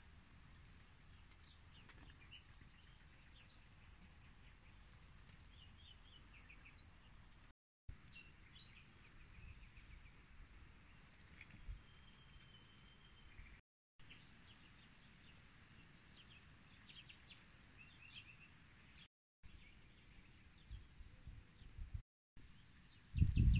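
Small birds chirping and calling intermittently over a faint outdoor background, with four brief dropouts to silence. Near the end a loud low rumble sets in.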